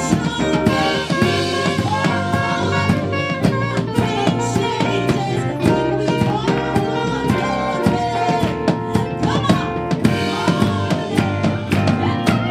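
Gospel band music with a drum kit keeping a steady beat under sustained instrument chords.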